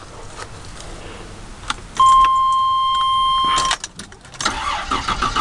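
Car keys jingling and clicking in the ignition, then a steady electronic warning chime for about two seconds. Near the end the starter cranks the 3.8 V6 in a quick run of pulses.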